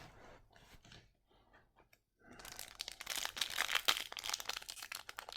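Faint rustling of trading cards, then from about two seconds in the loud crinkling and tearing of a hockey card pack's foil wrapper being ripped open and scrunched.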